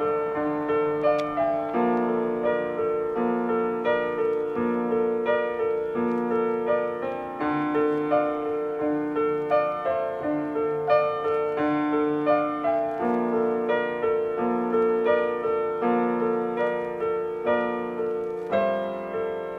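Piano music: a steady repeating pattern of struck notes, each fading before the next.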